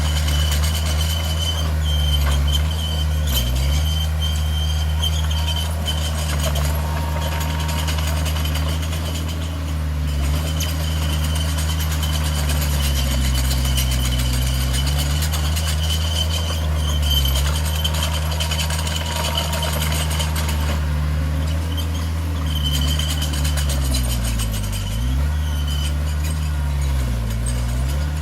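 Heavy diesel engine of earthmoving equipment running steadily under load, its speed dipping briefly a few times. A high thin whine comes and goes above it.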